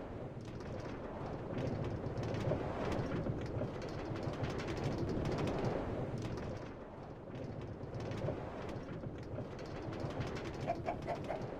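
A chicken making low clucking calls over a steady rushing noise, with a few short repeated clucks near the end.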